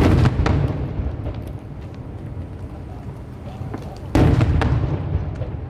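Aerial firework shells bursting overhead: two loud booms about four seconds apart, each followed by a low rolling rumble that fades away.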